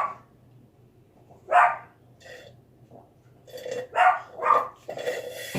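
Pet dog barking in short separate barks: one at the start, another about a second and a half in, then a quicker run of barks near the end. The dog is barking at someone outside who has just passed.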